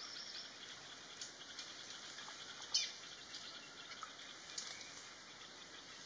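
Quiet forest ambience, a steady faint hiss, with a few short, high bird chirps; the clearest is about halfway through and another comes at the very end.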